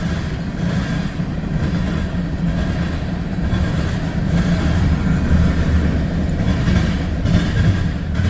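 Freight cars of a CSX mixed freight train rolling past in a steady, heavy rumble. It is heard from inside a truck cab, in high wind and rain.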